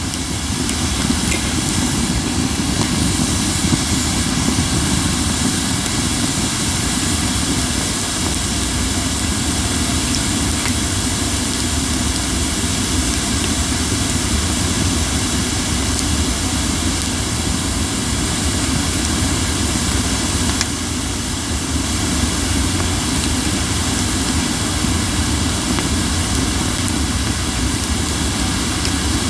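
Crape myrtle firewood burning, giving a steady hiss with a low rush beneath it and only a few faint crackles. The strong hissing is a sign of moisture left in the wood, which the burner had meant to dry thoroughly.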